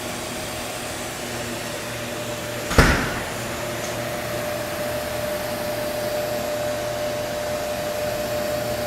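Jones & Shipman Suprema 650E CNC cylindrical grinder running with its grinding wheels spinning, giving a steady machine hum with a steady tone that grows a little stronger after about three seconds. A single sharp knock about three seconds in.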